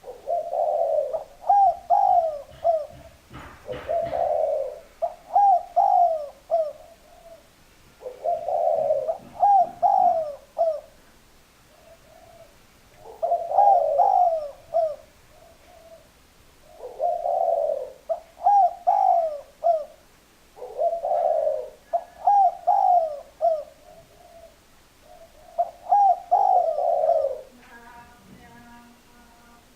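Spotted dove cooing: about seven repeated phrases, each a throaty opening note followed by a run of short, bending coos, coming every few seconds.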